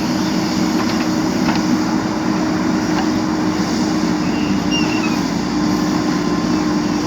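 A JCB 3DX backhoe loader's diesel engine running at a steady speed, with a constant hum and no change in revs.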